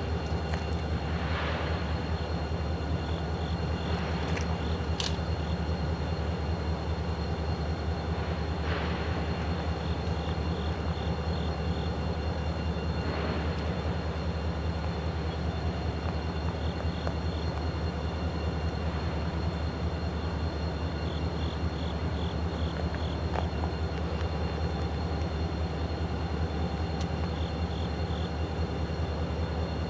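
Steady drone of EMD GP40-2 locomotives' 16-cylinder turbocharged diesel engines running at an even, unchanging pitch.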